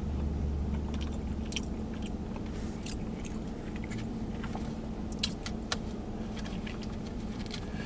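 A person chewing a mouthful of food, with scattered short clicks and crackles, over a steady low hum inside a vehicle.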